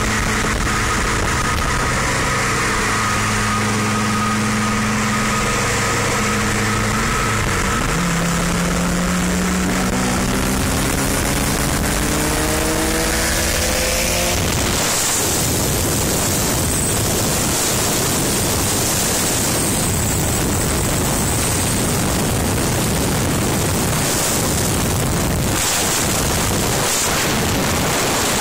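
Car engines revving, then accelerating hard, several tones climbing together for a few seconds. About halfway through, a loud, steady rushing noise takes over and covers them.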